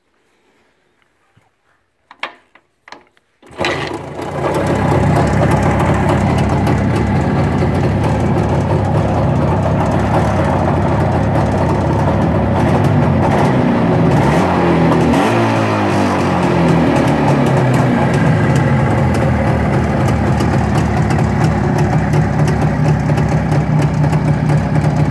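Jawa 350 two-stroke twin motorcycle engine starting. After a few short knocks it catches about three and a half seconds in and settles to a steady idle, with a brief rise and fall in revs about midway.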